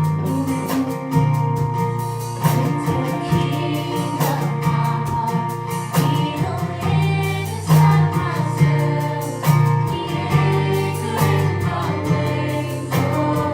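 Live gospel worship music: a band with guitar, bass and a steady beat, with singing over it.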